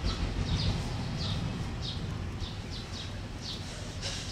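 Small birds chirping: short, high, falling chirps two or three times a second, over a steady low rumble.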